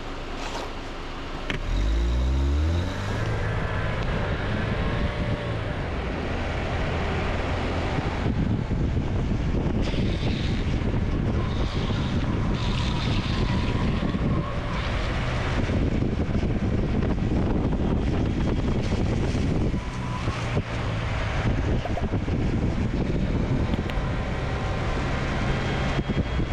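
Follow car's engine pulling away with a rising pitch about two seconds in, then running steadily under a constant rush of wind and road noise as it trails the longboard downhill.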